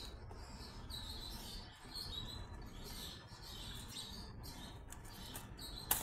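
Small birds chirping in short, high, squeaky calls, several a second, with one sharp snap just before the end.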